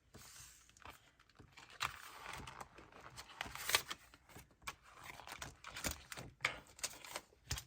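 Paper and plastic rustling and crinkling as cash budget envelopes are handled, with scattered light clicks and taps.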